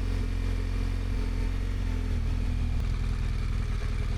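BMW motorcycle engine running steadily at low speed, with an even low note throughout.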